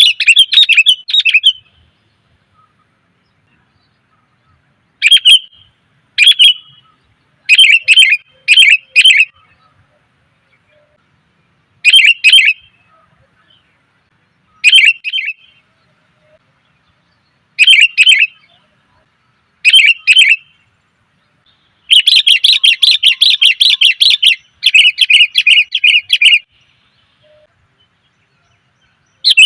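Female sooty-headed bulbul calling in short bursts of rapid chattering notes, each under a second with pauses of one to three seconds between, and a longer run of about four seconds after the middle. This is the female's call that is used as a lure to call in males.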